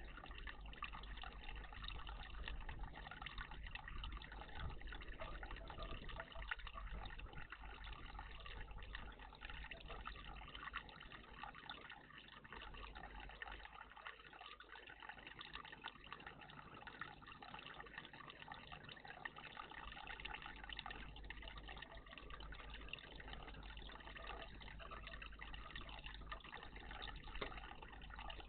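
Water running and trickling steadily in a garden bird bath.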